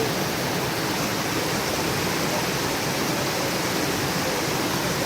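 Stream water rushing and splashing over rocks, a steady, even flow.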